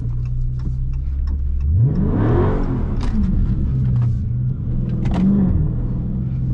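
Dodge Charger Scat Pack's 392 HEMI V8 running low, then revved hard about two seconds in, its pitch rising sharply and falling back within a second, with a hiss from the tyres on the wet road. It then settles back to a steady run, with a smaller rise near the end.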